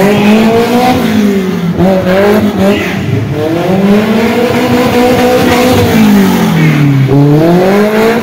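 Car engine revving hard, its pitch climbing and falling back three times.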